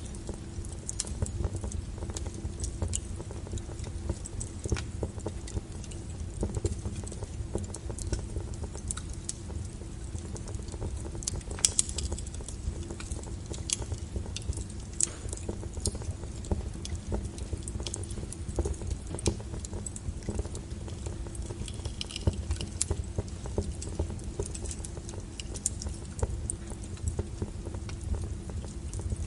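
Wood fire burning in a fireplace, crackling with irregular sharp pops over a low steady rumble of the flames; one pop about twelve seconds in stands out as the loudest.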